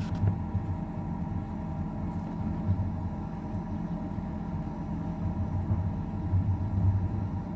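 Steady low rumble with a constant hum over it, most likely the Kings 75 L dual-zone fridge's compressor and cooling fan running while it draws power.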